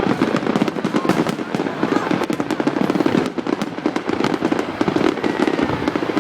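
Fireworks display: a continuous barrage of rapid bangs and crackles from exploding shells, with a faint whistle near the end.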